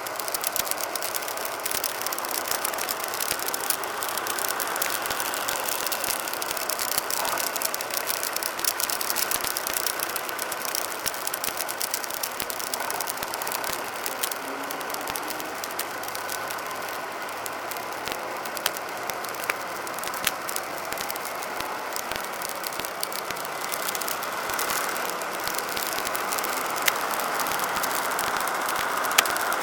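Tractor engines running steadily, with rattling and scattered sharp clicks.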